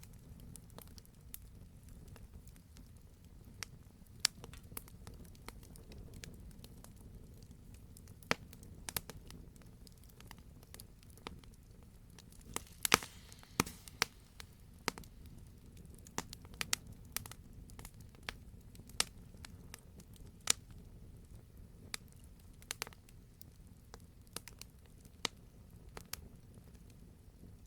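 Wood fire burning in a fireplace: a low steady rumble of flame under irregular sharp crackles and pops, with a quick run of louder pops about halfway through.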